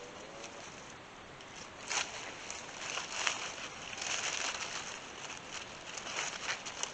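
Rustling and crackling of dry palm leaf and sticks being handled, in uneven bursts, loudest about two seconds in and again from about three to five seconds in.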